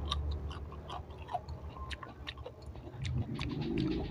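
A piece of raw winged bean pod being bitten off and chewed: a run of crisp, irregular crunches.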